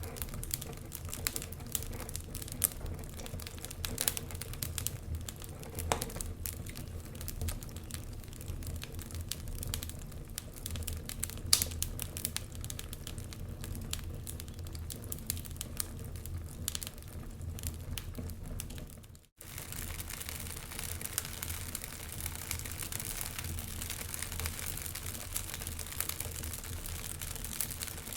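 Wood fire burning in a fireplace, crackling with irregular sharp pops over a low rumble. About two-thirds of the way through the sound briefly drops out, then returns with more hiss.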